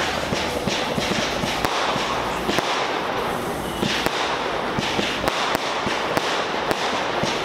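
Fireworks display: many sharp bangs in quick succession over continuous crackling.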